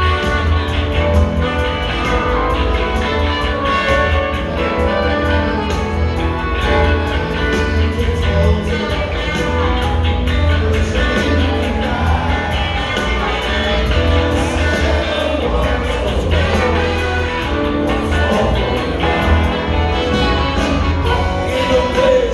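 Live rock band playing, with a heavy bass line and a steady drum beat under guitars.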